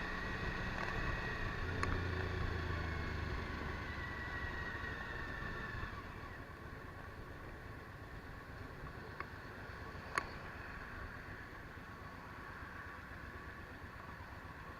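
Suzuki V-Strom DL1000's V-twin engine running on the move under wind and road noise. It eases off and gets quieter about six seconds in, and there is a sharp click about ten seconds in.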